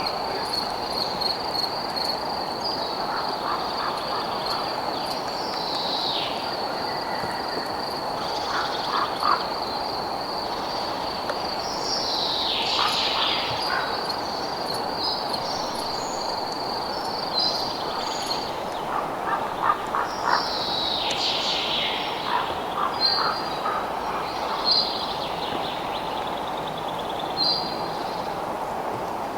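Night-time nature ambience: a cricket's high, steady pulsing trill that stops about two thirds of the way through, with several falling calls and short chirps from other animals now and then, over an even background hiss.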